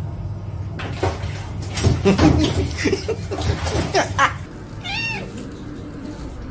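Domestic cat giving one short meow about five seconds in, its pitch rising and then falling, after a couple of seconds of jumbled knocks and voice-like sounds.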